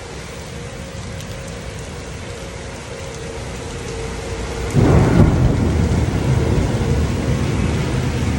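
Heavy thunderstorm rain and wind. About five seconds in, a sudden loud low rumble starts and the storm stays louder after it.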